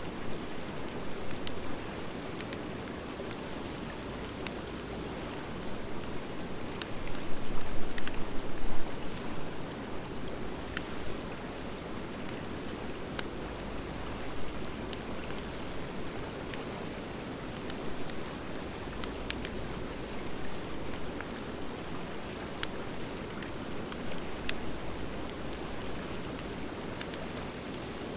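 Wood fire of driftwood and dry hardwood burning in a fire pit: a steady low rush of flames with scattered sharp crackles and pops, and a louder, busier spell of crackling about seven seconds in.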